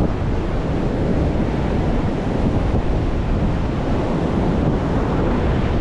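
Strong wind buffeting the microphone over the steady rush of rough ocean surf breaking on the beach.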